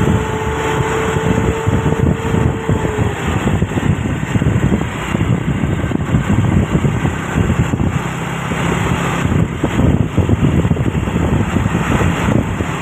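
Heavy truck's diesel engine running with a loud, steady rumble. A steady high tone, with a fainter one above it, sounds over the engine and stops about three seconds in.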